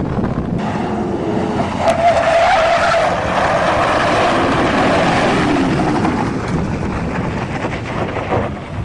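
A truck swerving onto a dirt road at speed: engine running and tyres skidding on the dirt, loudest in the middle and fading away near the end.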